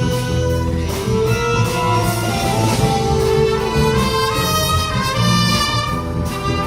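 A big band playing live, with horns (saxophones and trumpets) carrying the melody over a steady bass line.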